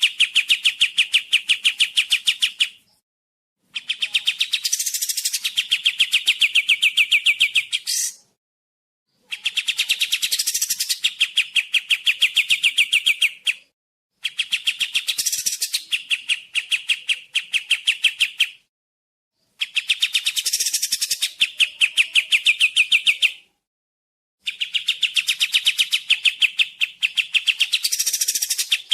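Kapas tembak song: a fast, rattling trill of sharp repeated notes. It comes in phrases of about four to five seconds, each followed by a pause of about a second, six times over.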